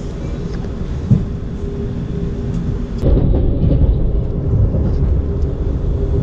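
Running noise of a Lastochka (Siemens Desiro RUS) electric train, heard inside the carriage while under way. It is a steady low rumble with a faint steady hum and a single knock about a second in. About three seconds in it jumps louder and fuller.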